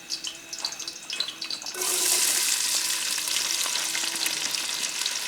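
Hot oil in a pan popping and crackling, then about two seconds in food goes into the smoking-hot oil and it breaks into a much louder, steady sizzle.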